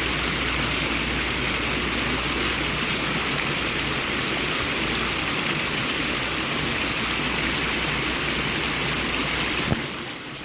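Creek water running steadily over rocks, an even rushing sound. A single click near the end, after which the sound briefly drops.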